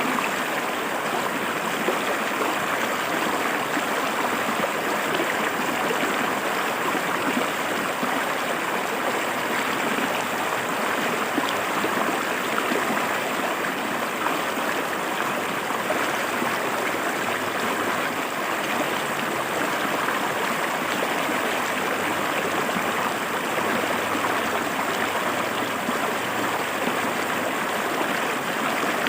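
River water flowing steadily over rocks, a continuous even rush and babble.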